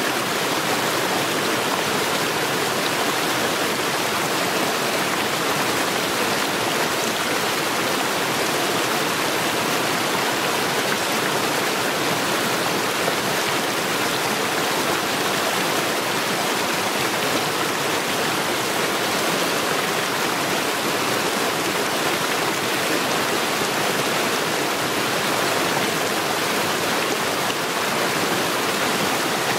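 Mountain stream rushing over stones: a steady, unbroken rush of running water.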